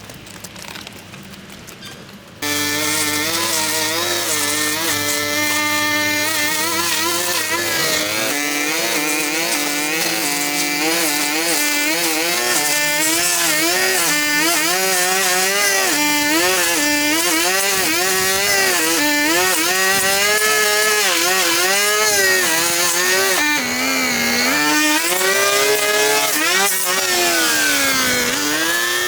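A power tool's motor starts up abruptly about two seconds in and runs at high speed, its pitch wavering up and down continuously, with two deeper dips near the end as it is slowed and picks up again.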